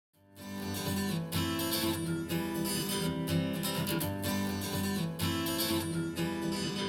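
Acoustic guitar strumming the intro of a pop song, played back through active bookshelf speakers and picked up by a recorder's microphone. It starts after a brief silence, about a third of a second in.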